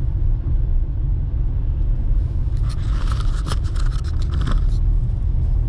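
Steady low rumble of car road noise heard from inside the cabin, with a run of sharp clicks and rattles from about two and a half to four and a half seconds in.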